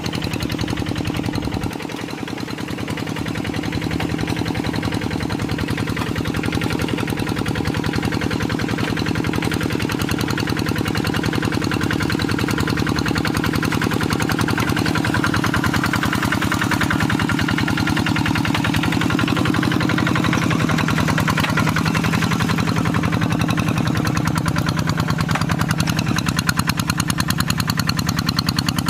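Kubota RD85DI-2S single-cylinder diesel engine on a Quick G3000 hand tractor running steadily, with a rapid, even beat of firing strokes.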